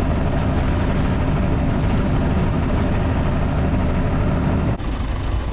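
Tractor engine running steadily under work. Shortly before the end it cuts off abruptly to a quieter engine sound.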